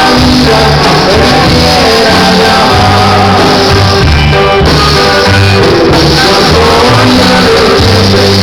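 Norteña band music with a singing voice over steady bass notes, loud and continuous.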